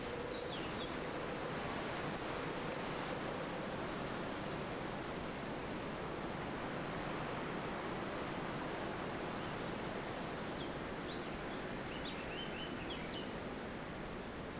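Steady rushing wind through forest trees, with a few faint bird chirps about half a second in and a short run of high chirps near the end.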